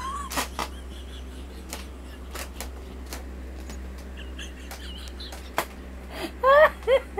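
Scattered light clicks and taps, then near the end two or three short, high-pitched laughing squeals.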